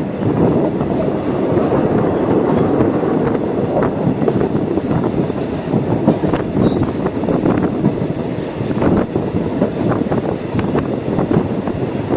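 Passenger train running, heard from on board a carriage: a steady rumble with irregular clicks and knocks of the wheels over the rail joints.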